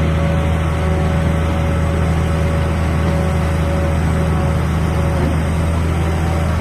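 Hydraulic pile-driving machine's engine and hydraulic power unit running steadily under load: an even low drone with a faint steady whine and no hammer blows.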